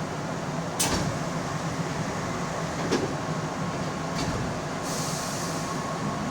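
Keihan electric train heard from inside, a steady hum with two sharp knocks about one and three seconds in and a brief hiss of air near the end.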